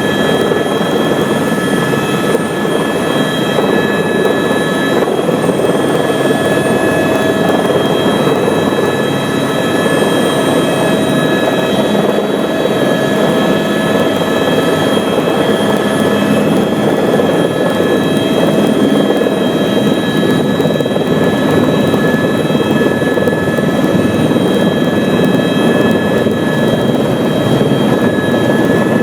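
Cabin noise of an AS350 A-Star helicopter running: a steady, dense rumble of rotor and engine with several steady high whining tones from the turbine and transmission, heard from inside the cabin.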